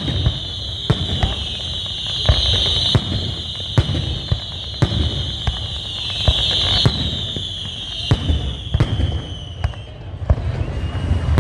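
Fireworks display: shells bursting in sharp bangs about once a second, over a loud, high, shrill whistle that slides slightly down in pitch and stops about ten seconds in.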